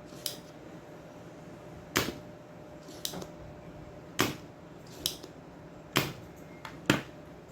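Sharp clicks and snaps of hand tools on a circuit board, about seven of them at roughly one a second, while a rusted optocoupler is being desoldered and pulled out.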